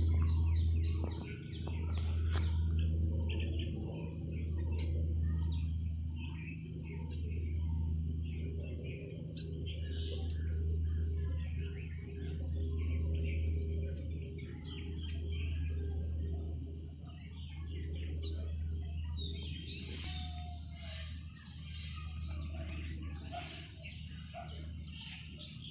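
Small birds chirping with many short calls over a steady high insect trill, with a low rumble that swells and fades every couple of seconds underneath.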